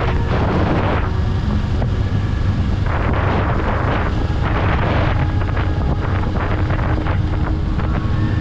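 Kawasaki Eliminator 500's parallel-twin engine running steadily while riding, with wind buffeting the microphone in gusts around the start and again between about three and five and a half seconds in.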